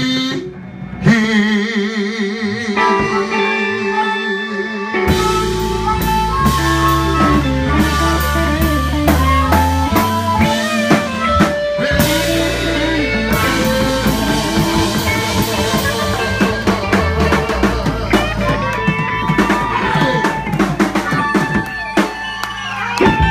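Live blues band with drum kit, bass and electric guitar playing. A held, wavering note sounds alone at first, then drums and bass come in about five seconds in and the full band plays on.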